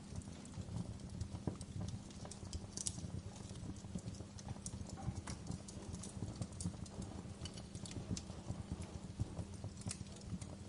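Wood fire burning in a fireplace: irregular crackles and sharp pops from the burning logs over a steady low rumble.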